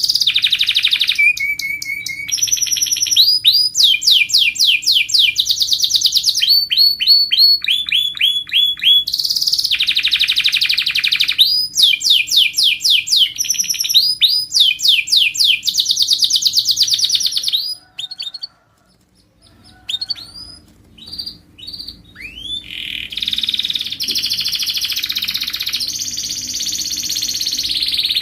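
Domestic canary singing: fast trills of rapidly repeated sweeping notes, one phrase after another. The song breaks off briefly about two-thirds of the way in, resumes with a few scattered notes, then turns into a continuous warble near the end.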